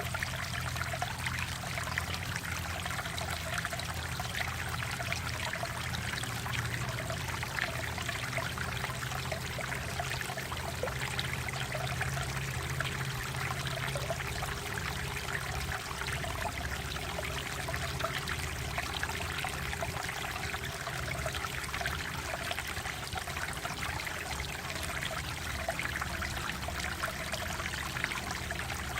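Mountain valley stream water flowing and trickling over rocks, a steady, continuous splashing babble.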